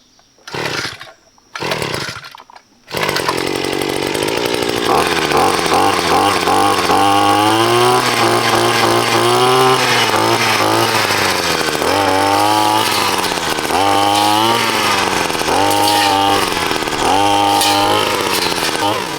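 Chainsaw-type saw cutting wood. Two short bursts, then from about three seconds in it runs without stopping, its pitch sagging and recovering again and again as the chain bites into the wood.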